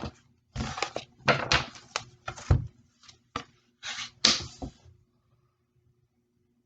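A tarot deck being shuffled and handled: a quick run of papery card slaps and rustles that stops about five seconds in.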